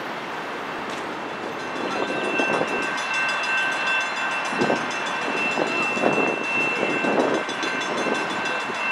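A train approaching a station, heard as an uneven low rumble. From about two seconds in, a steady ringing of two high tones joins it and holds to the end.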